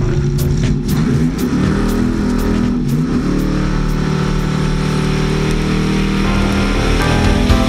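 Drag car's engine accelerating hard away from the start line, its pitch climbing over the first few seconds and then holding at high revs.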